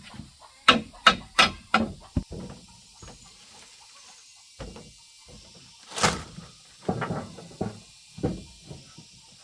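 A series of sharp, irregular knocks: four in quick succession in the first two seconds, then a handful more spaced about a second apart.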